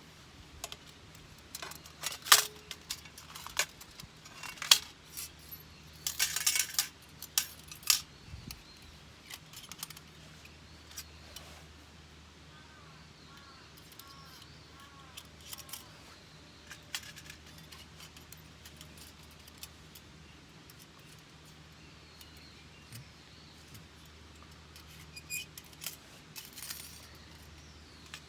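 Hands handling camp gear and a lunch box: scattered sharp clinks, knocks and short rattles with long quiet gaps between them. The loudest clicks come about two and five seconds in, with a rattling cluster a little later.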